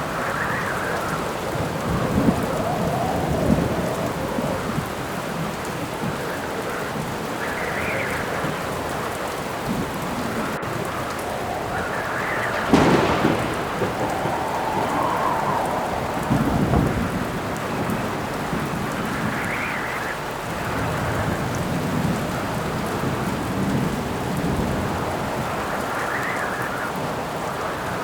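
Steady rain falling through a storm, with howling wind gusts that swell and fade every few seconds. Thunder rumbles several times, loudest about 13 seconds in.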